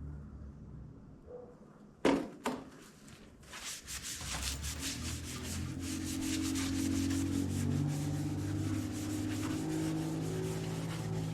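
A rag scrubbing back and forth over the tractor's cast-iron front weights with paint thinner, a steady rubbing that starts about three and a half seconds in. Two sharp knocks come just before it, about two seconds in.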